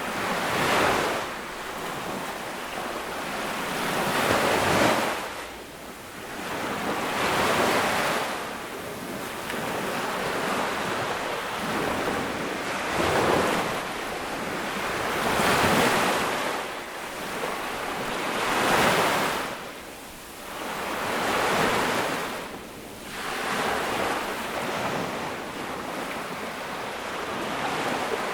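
Small ocean waves breaking on a sandy beach, one swell of surf after another every two to three seconds, each rising and washing back.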